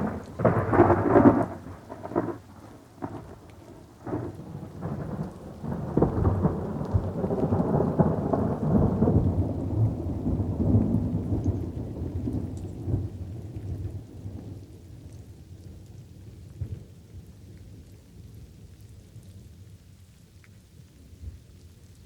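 Thunderstorm with light rain: a burst of sharp thunder cracks in the first two seconds, then a long low rumble of thunder that builds about six seconds in and slowly fades away, over a faint steady patter of rain.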